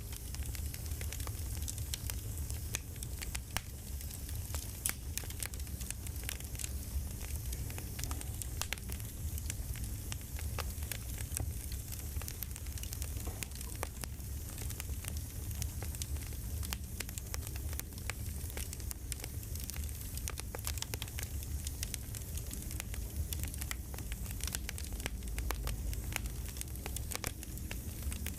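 Crackling campfire ambience: a steady low rumble with frequent sharp pops and crackles throughout.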